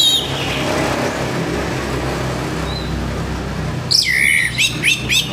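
Orange-headed thrush singing in fast runs of loud whistled notes. The song breaks off at the start and resumes about four seconds in. In between, a steady rushing noise with a low hum fills the gap.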